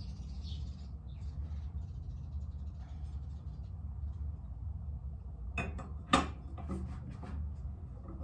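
Metal clinks and knocks from a lawn mower blade and counterweight being handled and fitted onto the spindle, a cluster of them about five and a half to seven seconds in, loudest just after six seconds. A steady low hum runs underneath, with a few bird chirps in the first second.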